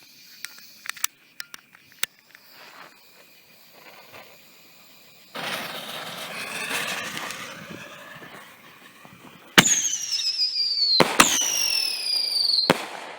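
Dragon Fireworks Whistling Buster ball shell going off: a fuse hisses for a few seconds, then a sharp crack followed by a loud whistle falling in pitch, repeated a second later with another crack and falling whistle, ending in a last bang.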